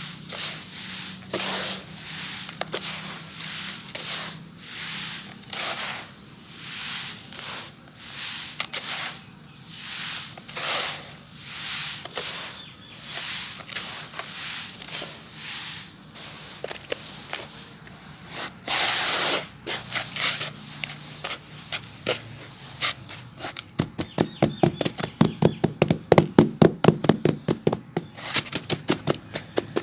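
Gritty sand-cement being crumbled and crushed, a run of crunchy, scraping crumbles about a second apart. About 19 s in there is one longer gritty burst. From about 24 s on it turns into a fast series of sharp taps, roughly four or five a second.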